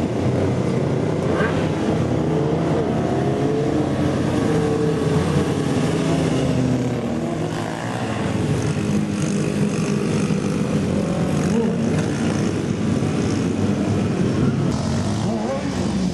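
Several mini bikes' small single-cylinder four-stroke engines running and revving, their pitches rising and falling over one another.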